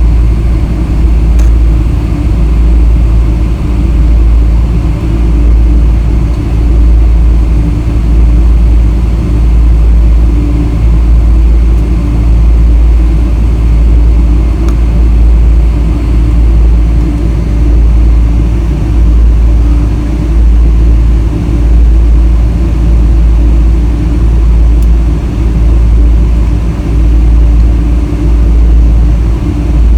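Boeing 777-300 airliner running: a loud, steady low rumble with an even engine drone that holds its pitch throughout.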